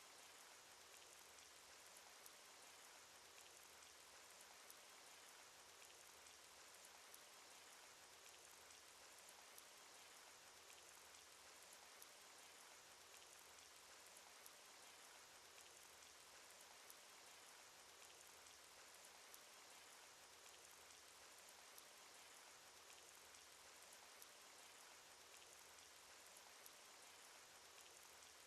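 Cartoon rain sound effect: a steady, faint patter of falling rain with scattered individual drop ticks.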